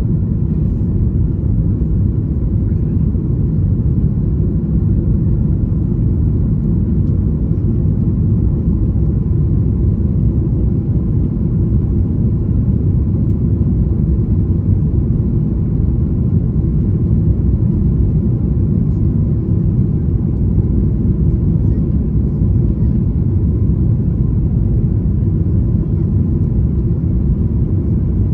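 Airliner cabin noise during takeoff: a loud, steady low rumble of engines and rushing air, heard from inside the cabin.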